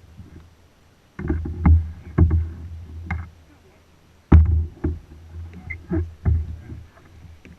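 Kayak paddling: a series of irregular knocks and thumps from the paddle and hull, in two clusters with a brief lull between.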